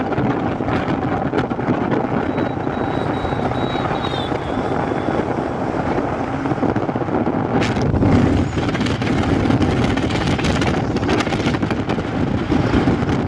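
Steady wind rush on the microphone over the engine and road noise of a motorbike on the move.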